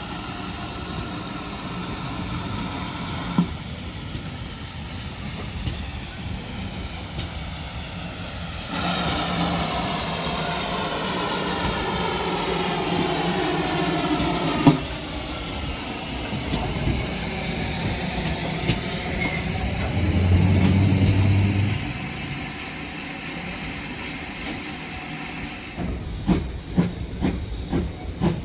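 Steam locomotive, GWR 5600 class 0-6-2 tank engine 5619, hissing steam steadily, getting louder about a third of the way in. A run of sharp knocks comes near the end.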